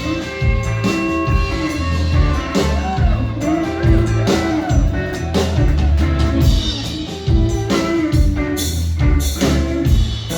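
Live blues-rock band playing: electric guitar over a drum kit and a pulsing bass line.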